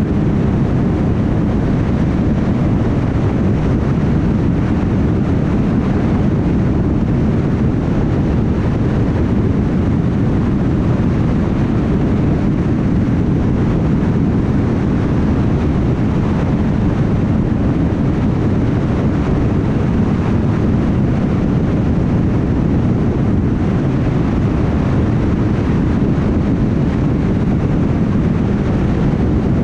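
Steady low rumble of a car driving at constant highway speed: tyre and road noise with engine drone, unchanging throughout.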